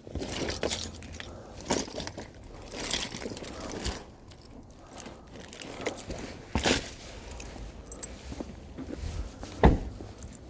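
Irregular clinks, rattles and knocks of small hard objects being handled, with a heavier thump near the end.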